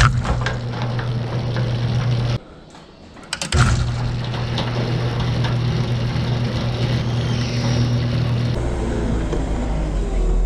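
Electric motor of an overhead garage door opener, running on a replacement capacitor, starting with a click and running with a steady hum. It stops after about two seconds, starts again a second later and runs steadily, then shifts to a lower hum near the end.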